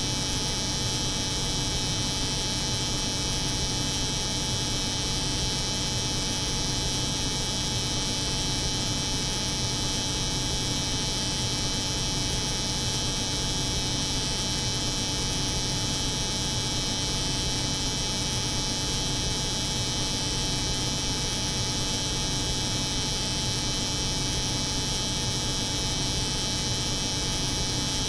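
Steady layered machine drone: an electric hair clipper buzzing over the hum of a cold room, unchanging throughout.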